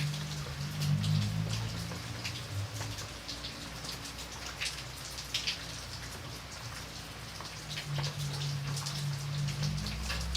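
Rain falling, with separate drops ticking on a nearby surface over a steady hiss. A low hum underneath fades out a few seconds in and comes back near the end.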